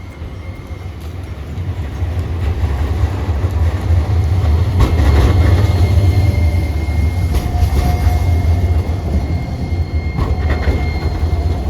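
Streetcar running past, its low rumble swelling to a peak about halfway and then easing, with a faint steady high whine and a few sharp clacks of wheels over rail joints.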